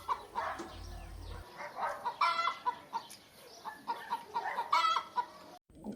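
Hen clucking: a string of short, repeated clucks, louder bunches about two seconds in and near the end, cutting off abruptly.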